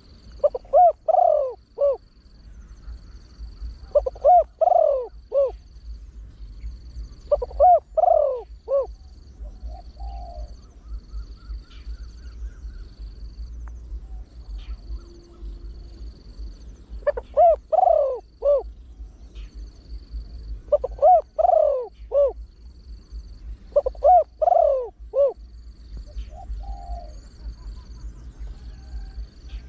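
Deep-voiced spotted dove singing its 'yon, one kuk' coo phrase: six short phrases of several coos each, in two runs of three, spaced a few seconds apart, with about eight seconds of pause between the runs. A faint, evenly pulsed high tone runs underneath.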